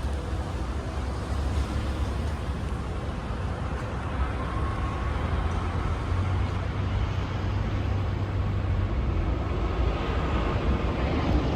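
Steady low rumble of motor vehicles, like road traffic, growing slightly louder near the end.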